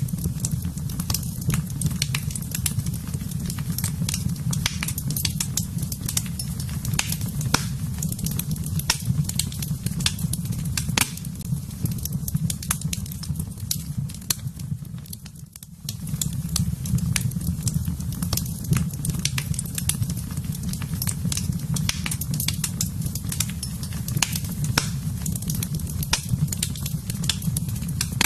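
Wood fire in a fireplace burning, with a steady low rumble of flames and frequent sharp crackles and pops. The sound dips briefly about halfway through, then carries on as before.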